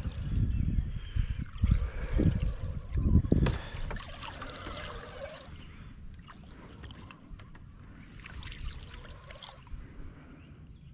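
Water lapping and sloshing around a small jon boat, with several low thumps in the first few seconds, then fainter water and small knocks.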